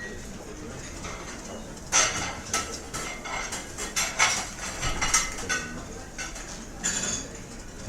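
Restaurant clatter: cutlery clinking against plates and dishes in quick irregular strikes, busiest through the middle, over a low background murmur.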